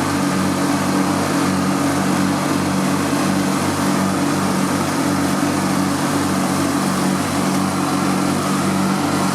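Riding lawn mower engine running steadily, its repair having got it going after it would not start or run.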